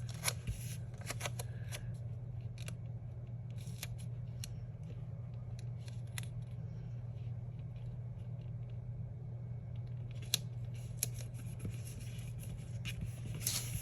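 Sticker paper being handled and trimmed: scattered light clicks and paper rustles in small clusters, over a steady low hum.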